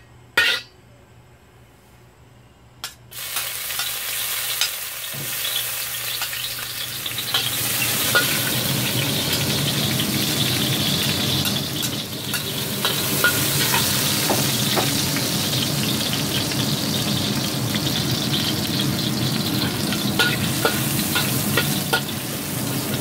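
Chopped garlic and ginger frying in hot oil in an iron wok. After a brief clatter and a quiet spell, the sizzling starts about three seconds in and carries on steadily. A spatula stirring and scraping in the wok adds light clicks.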